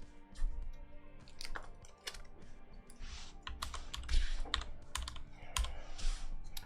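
Trading cards and foil pack wrappers being handled: a run of light clicks and taps with a few short rustles, over faint background music.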